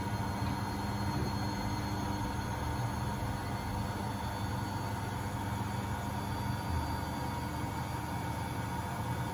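Beko WMB71642W washing machine in its final spin at 1000 rpm: the drum and motor run steadily, with a low hum and a steady high whine over a rushing noise.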